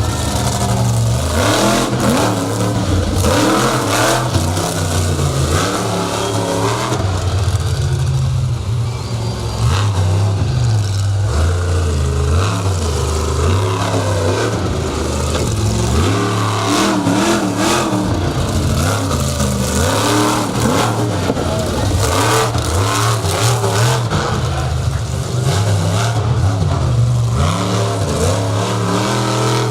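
Monster truck engine running hard and revving, its pitch rising and falling repeatedly as the throttle is worked, with occasional sharp knocks.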